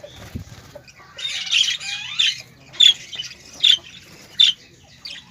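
Birds squawking: a second or so of mixed chattering calls, then three loud, sharp single calls evenly spaced a little under a second apart.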